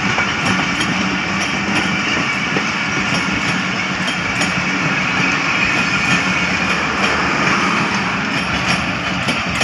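Passenger coaches of an express train rolling past at close range: a steady rumble of steel wheels on the rails with regular light clicks.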